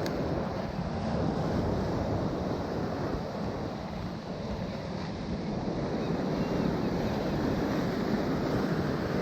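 Sea surf washing steadily, with wind blowing on the microphone.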